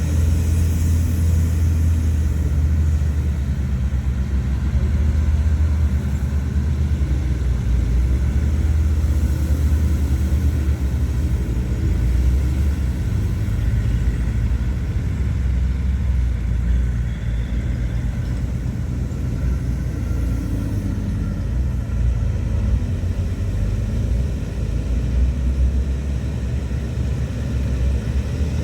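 Diesel engine of a heavy earthmoving machine running steadily under load, a continuous low rumble that barely changes in level.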